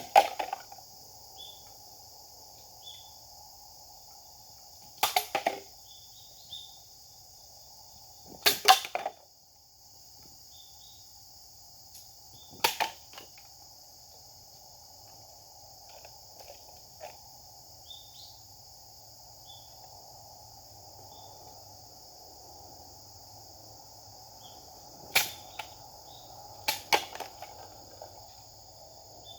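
Japanese sword (katana) swings and cuts: about six sharp swishing strikes at irregular intervals of a few seconds. Steady insect chirring runs underneath.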